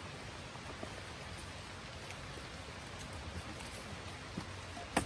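Steady rain falling: an even hiss with a few faint ticks, and a sharp click near the end.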